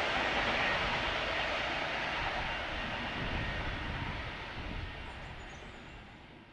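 Railhead treatment train running away along the line, a steady rushing rumble that fades steadily and cuts off just after the end.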